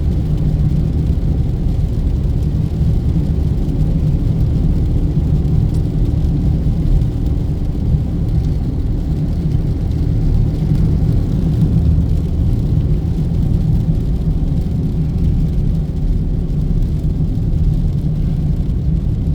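Steady road and engine rumble inside a moving car's cabin at cruising speed.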